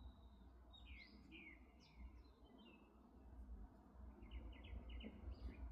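Birds chirping faintly: a few quick descending chirps, then a rapid run of short notes near the end, over a steady low rumble.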